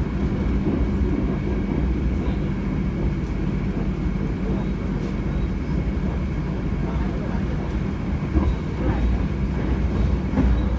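Argo Dwipangga passenger train running at speed, heard inside the carriage: a steady low rumble of the wheels on the rails, with a steady hum over it.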